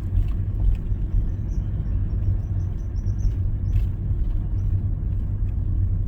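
Car driving slowly, with the steady low rumble of engine and tyres heard from inside the cabin. Faint short high chirps come in the first half.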